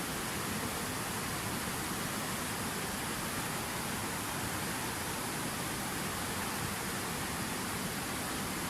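Water falling steadily from a fountain waterfall, a constant even splashing rush with no change in level.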